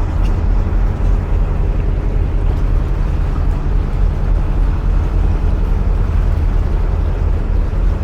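Narrowboat's diesel engine running steadily at cruising speed, a continuous low drone echoing inside a long canal tunnel.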